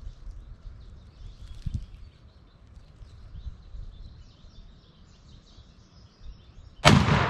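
Small birds chirping faintly over a low outdoor rumble, then near the end a single loud shotgun blast from a Charles Daly shotgun whose report fades away over a couple of seconds: the shot that kills a wild turkey gobbler.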